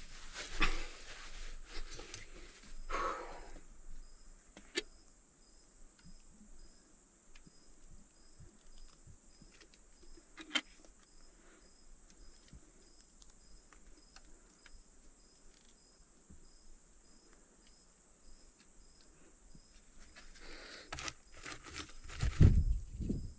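Insects, crickets or similar, trilling steadily at a high pitch, with a second fainter insect ticking evenly underneath. A few scattered clicks and rustles occur early on and around ten seconds in, and a louder rustling thump comes near the end.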